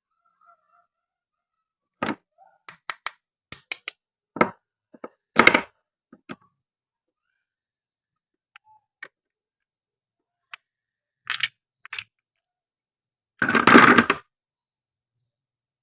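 Toy wooden and plastic fruit being cut on a cutting board: a series of sharp taps and knocks from a toy knife and pieces, then one louder, longer cutting sound lasting under a second near the end.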